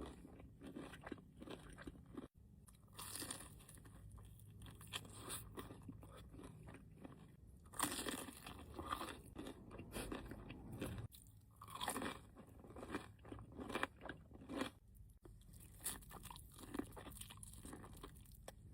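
Close-up eating of fried chicken wings: irregular crunchy bites and chewing.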